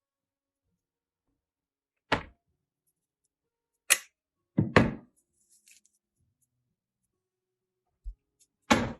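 A few short, sharp knocks and thuds, irregularly spaced: one about two seconds in, one near four seconds, a quick double just after, and a last one near the end, with a faint low bump shortly before it.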